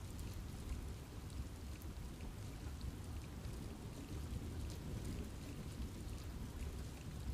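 Steady rain falling in a forest: a low, constant rush with scattered individual drops ticking on top.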